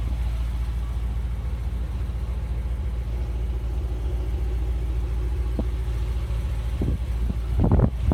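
2004 Cadillac CTS-V's LS6 V8 idling steadily through an aftermarket exhaust, with a couple of light clicks in the second half.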